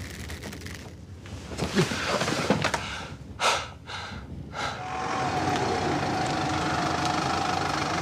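Strained, sobbing breaths with a few sharp gasps, then from about five seconds in a minicab's engine idling steadily.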